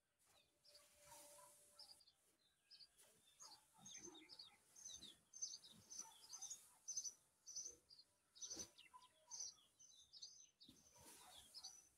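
Small birds chirping faintly, a quick run of short high chirps, with now and then a soft rustle of straw and cloth being handled.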